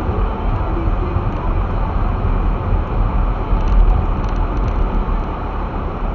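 Steady low rumble of a car driving on a snow-covered street, heard from inside the cabin: tyre and road noise with the engine running underneath.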